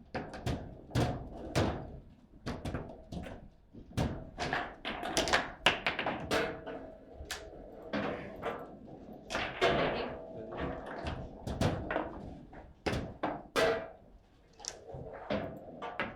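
Foosball table in play: a quick, irregular run of sharp knocks and thunks as the ball is struck by the players and bangs off the table walls.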